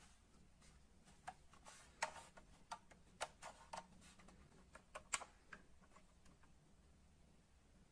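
A string of small, irregular clicks and taps, about a dozen in the middle few seconds, over near silence.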